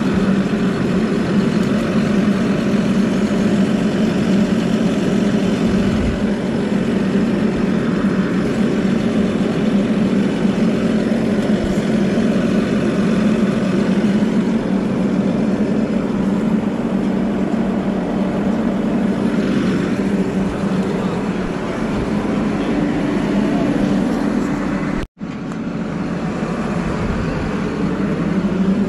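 Heavy diesel engine idling steadily, a deep even hum; the sound cuts out for an instant about 25 seconds in.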